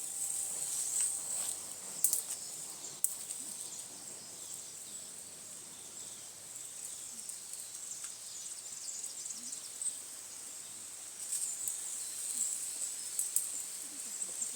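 Insects droning steadily at a high pitch, with a few sharp clicks about two and three seconds in and a run of them near the end.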